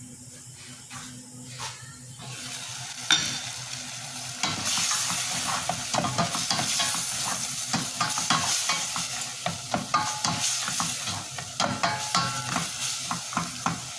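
Food sizzling in a hot pan while it is stirred with a utensil, with many quick scraping clicks against the pan. The sizzle comes in about four seconds in after a sharp knock.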